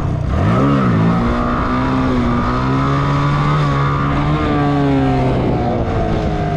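Motorcycle engine revved up sharply about half a second in and dropping back, then held at a fairly steady throttle with small rises and falls in pitch.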